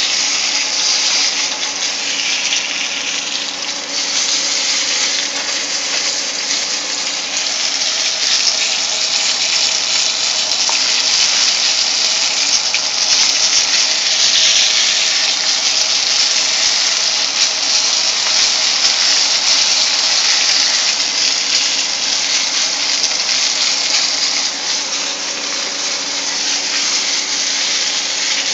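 Flour-coated squirrel pieces frying in oil in a pan: a steady sizzle.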